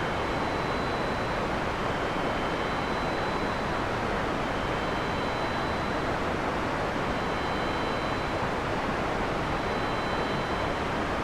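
Heavy rain falling as a steady, even hiss and rush without a break, with no thunder in this stretch. A few faint, thin high tones sit steadily above it.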